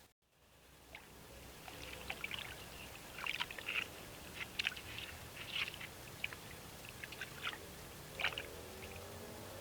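North American beaver moving branches in the water at its dam: irregular splashes and crackles of wet wood over steady trickling water.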